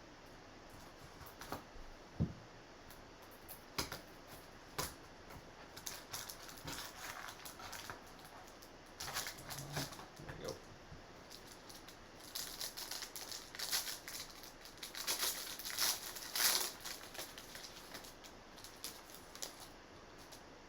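Hands opening a box of hockey trading cards: a plastic wrapper crinkles in bursts, densest in the middle and later part, among scattered taps and clicks of cardboard and cards being handled.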